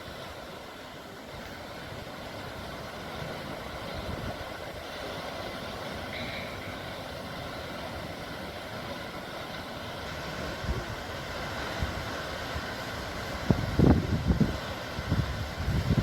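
Sea surf, a steady washing hiss that slowly swells, with loud irregular low buffets in the last couple of seconds.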